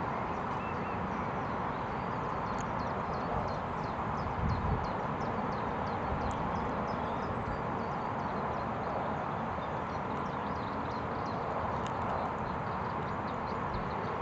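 Many small birds giving short, high chirps over and over, against a steady rushing background noise.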